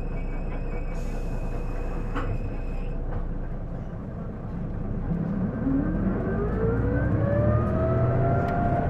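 Isuzu Erga city bus heard from on board: steady running noise, then about five seconds in it pulls away and a whine rises steadily in pitch as it accelerates. This is the abnormal noise this bus makes every time it accelerates, likened to a PDG-LR bus's automatic transmission; the owner suspects the transmission.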